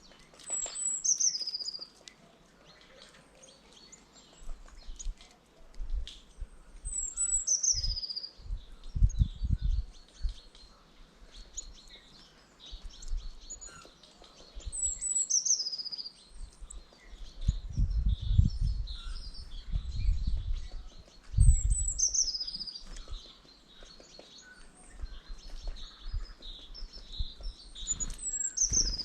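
Small songbirds calling at a feeder: a high call sliding downward recurs about every six or seven seconds among many short high chips. Low rumbling noise comes and goes, loudest around a third of the way in and again about two-thirds through.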